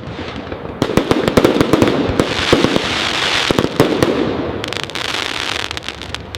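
Fireworks crackling: a dense, rapid run of sharp pops and snaps over a noisy hiss, thinning out near the end.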